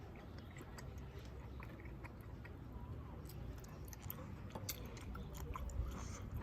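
A person chewing a big mouthful of cooked squid, with scattered small wet clicks and smacks, more of them in the second half.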